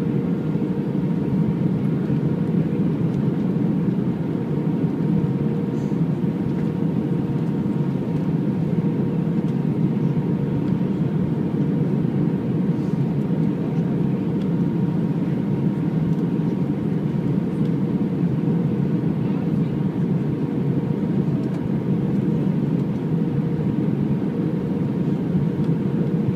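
Steady engine and airflow noise inside the cabin of an Airbus A319 airliner in flight, a constant low rush with a faint steady hum running through it.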